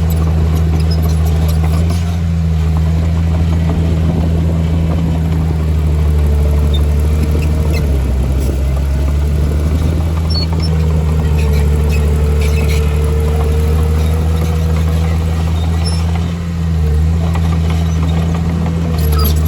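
Heavy diesel engine of earthmoving equipment running steadily under load, with a fainter higher whine above it and brief small dips in pitch twice.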